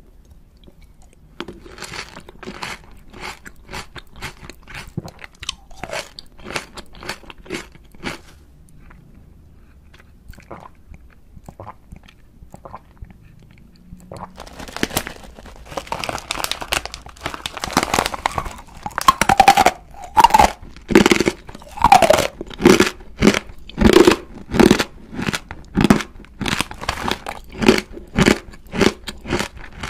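Close-miked eating sounds: soft clicky chewing in the first part, then from about halfway much louder, crisp crunching of crunchy food, about two crunches a second.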